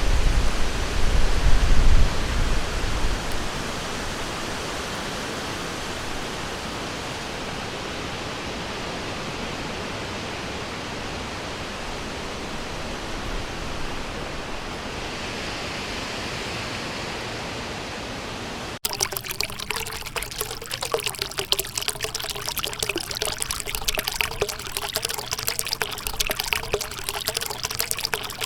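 Water from a stream or river rushing steadily, with low rumbling in the first few seconds. About two-thirds of the way through it cuts abruptly to a closer, busier trickling and splashing of running water.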